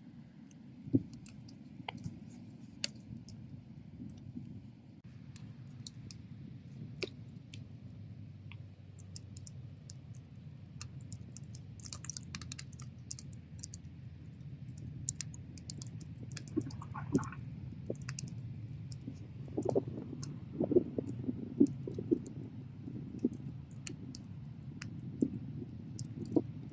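Bonfire crackling: irregular sharp pops and snaps from the burning wood over a low steady rumble of the flames, with a louder run of pops about two thirds of the way through.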